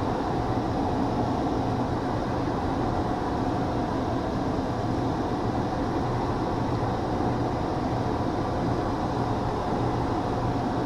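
Air-conditioning unit running with its blower motor working again, a steady rush of air under an even hum.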